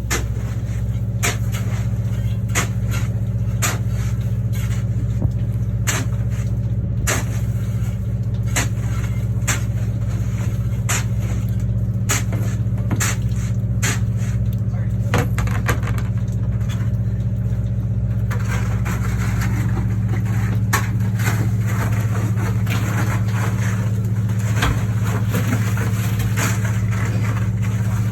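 Vehicle engine idling with a steady low hum, with sharp ticks and taps scattered over it throughout.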